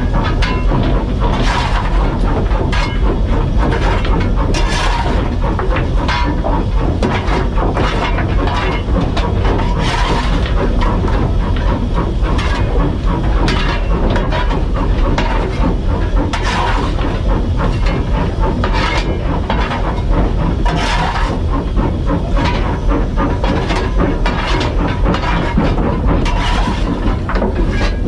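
Steam locomotive working up a gradient, heard from the footplate: a loud, steady rumble and hiss with sharper bursts every second or two.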